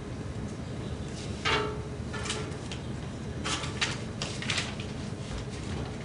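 Quiet indoor room noise: a steady low hum with several brief sharp handling noises, clustered between about one and a half and five seconds in.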